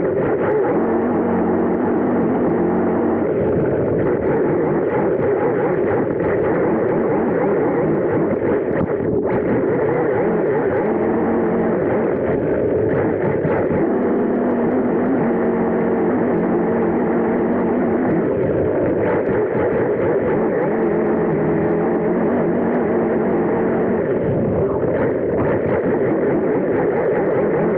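Arrma Typhon Grom BLX RC buggy driving through snow, heard from its onboard camera: a steady, muffled rush of drivetrain noise and snow and wind noise, with its low motor tone coming and going as the throttle changes.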